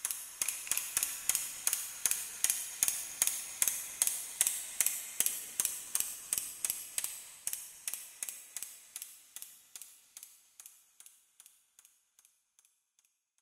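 Steady rhythmic ticking, about two and a half sharp ticks a second, fading away gradually over the second half until it dies out near the end.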